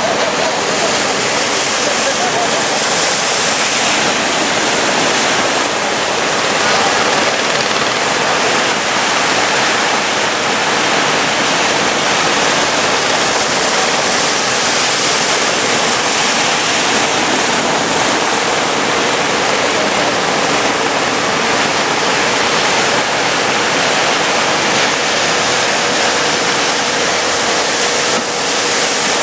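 Heavy sea surf: big waves breaking and rushing water, loud and steady, swelling a little now and then.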